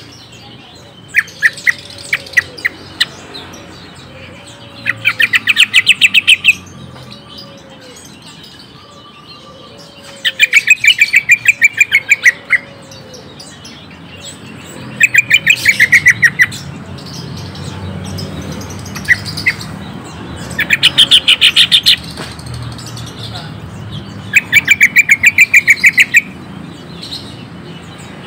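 Green leafbird (cucak ijo) calling in bursts of rapid repeated notes, each about a second and a half long and coming about every five seconds, with a few single chirps in between.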